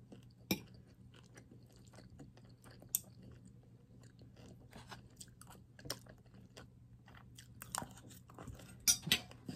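Close-up mouth sounds of someone chewing a mouthful of rice and vegetables, with soft crunching and wet smacking, broken by scattered sharp clicks of a metal fork and spoon against the dish.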